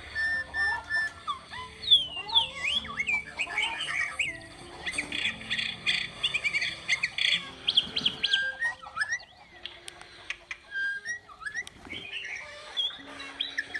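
Many birds chirping and squawking in short, high calls, thick and overlapping for the first half, then thinning out after about eight seconds.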